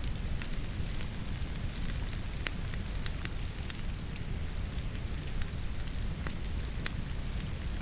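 Firewood crackling in a fireplace, with scattered sharp pops, over a steady rush of falling rain.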